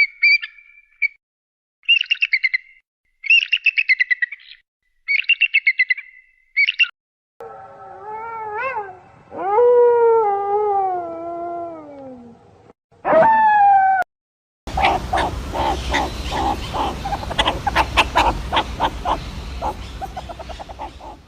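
A run of different animal calls. First come bursts of high bird-like chirping, then longer wavering calls that slide up and down in pitch, with a short rising call at about 13 seconds. From about 15 seconds there is a dense, rapid chattering.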